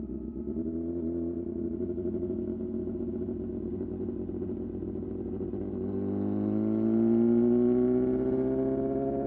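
Suzuki GSX-R750 inline-four engine running at fairly steady revs, then rising in pitch from about six seconds in as the bike accelerates.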